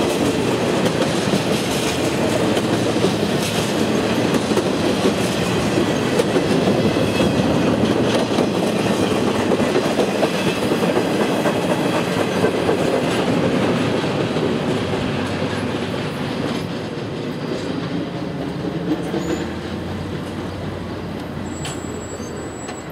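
Freight train of empty intermodal flatcars rolling past, its steel wheels clattering on the rails. The sound fades away after the last car goes by about halfway through.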